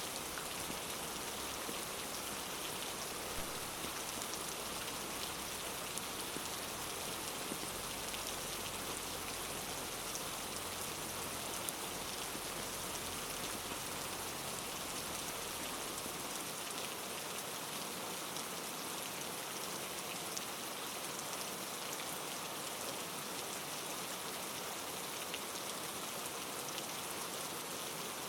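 Steady rainfall: an even hiss of rain with scattered drops pattering on surfaces.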